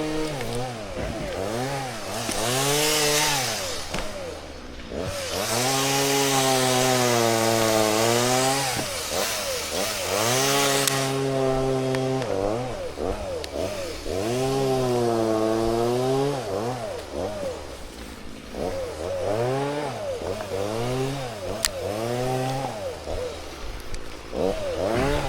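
Chainsaw revved repeatedly, its engine pitch rising and falling as the throttle is opened and released, held at full throttle in two long spells, the longer from about five to eleven seconds in, with the chain cutting into birch wood.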